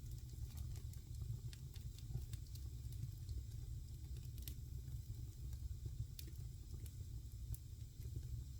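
Wood fire crackling in a fireplace: scattered, irregular sharp pops and crackles over a steady low rumble of the flames.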